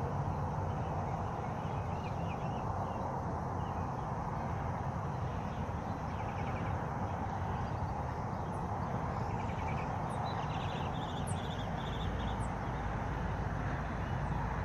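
Small songbirds chirping and trilling, with a cluster of quick trills about ten seconds in, over a steady rush of water.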